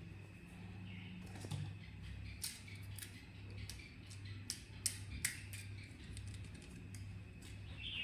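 Irregular light clicks and taps, several a second at times, as of a plastic toy or its packaging being handled, over a faint steady low hum.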